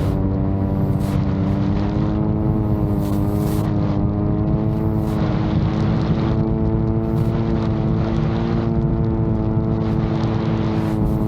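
VTOL drone's propellers running with a steady buzz whose pitch drifts slightly up and down, with gusts of wind buffeting the microphone.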